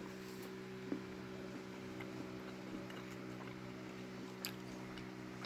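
A steady low hum made of several even tones, like a fan or motor running in the room, with a few faint clicks and ticks.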